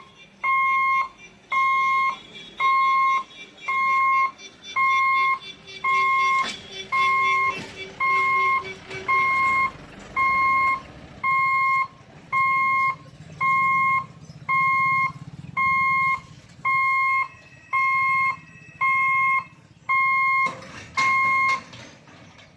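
Electronic warning alarm at a railway level crossing, beeping about once a second in a steady high tone while the gate is closed for an approaching train. It stops near the end.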